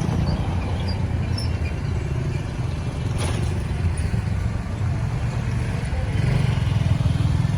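Busy road traffic noise: a steady low rumble of vehicle engines and tyres, with a brief clatter about three seconds in, growing a little louder near the end.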